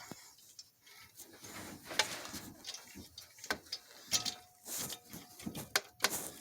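Socket ratchet clicking in short irregular runs, with small metal-on-metal scrapes and taps of the tool, as a spark plug is threaded into its hole and turned in.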